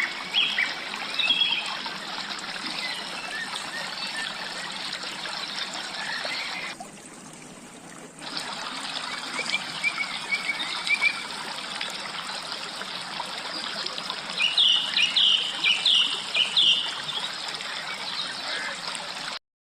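A forest stream runs steadily over rocks while small birds chirp. Short repeated calls come near the start and a burst of chirps comes about fifteen seconds in. The water sound drops away for about a second and a half around seven seconds in, and everything cuts off suddenly near the end.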